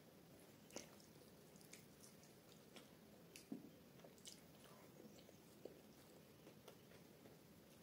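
Faint close-up chewing of a mouthful of paneer paratha with saag: soft, wet mouth clicks at irregular intervals over a quiet background.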